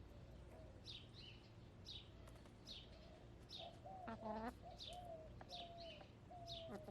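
A wild songbird repeats a short, high, falling chirp about every 0.7 s. Faint, low, drawn-out calls join from about halfway in, with one fuller call about 4 seconds in, typical of contented hens murmuring.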